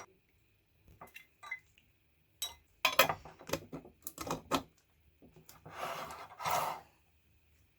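Small metal parts and tools handled on a workbench: a string of sharp clicks and knocks, then two short scraping strokes about six seconds in.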